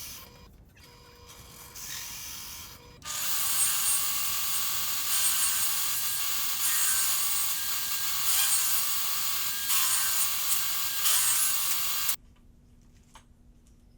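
A tool working on wood: a steady rasping noise that starts about three seconds in and stops abruptly near the end, after two shorter, quieter stretches of similar noise.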